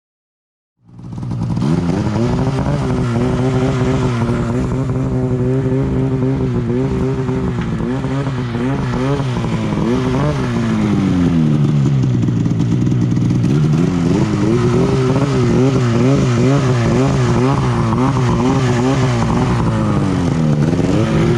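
Snowmobile engine running under throttle, starting abruptly about a second in. Its pitch wavers up and down with the throttle and dips twice, about halfway through and near the end.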